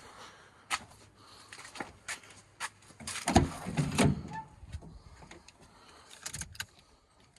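Scattered clicks and knocks from handling the pickup, with two louder thumps a little past three seconds in and again about half a second later. The engine does not crank or run, because the battery cable is still disconnected.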